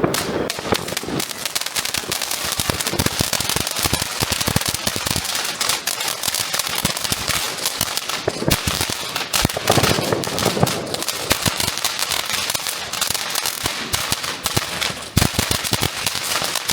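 Firecrackers going off in a dense, unbroken string of sharp cracks, some louder than others.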